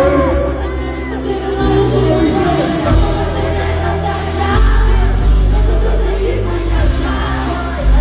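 Live concert sound: a song with a heavy bass line plays loud over the PA while a voice sings, with crowd voices and whoops mixed in.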